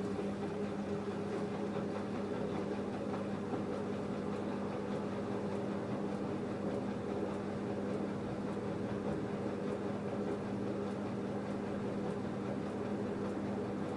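LG F10A8HDS5 front-loading washing machine running mid-cycle on a cotton wash, a steady motor hum over the noise of the tumbling load.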